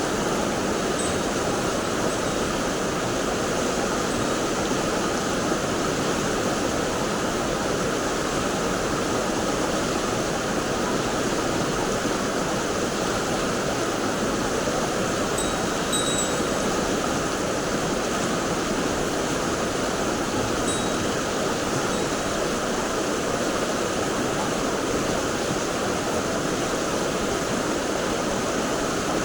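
Mountain stream water rushing steadily, an even, unbroken wash of flowing water.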